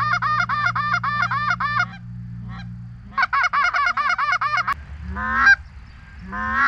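Goose calling: a rapid, even run of short honking clucks at about six a second, broken off and then resumed. Near the end come two long honks that rise in pitch and break upward, in the style of a hunter's goose call working a flock.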